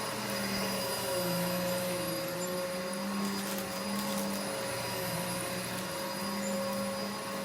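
Vacuum cleaner running steadily. Its motor hum dips slightly in pitch now and then.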